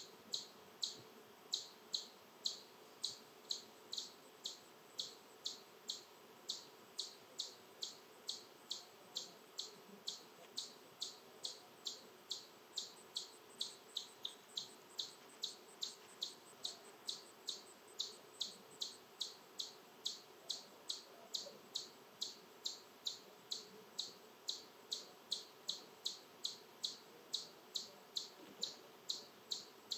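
A steady, even series of short, high chirps, about two to three a second, repeated without a break.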